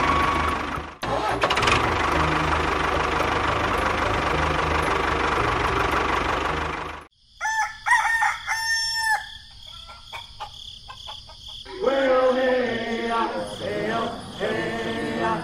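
Tractor engine running steadily for about seven seconds, then cutting off suddenly. A rooster crows next, followed by several seconds of voices.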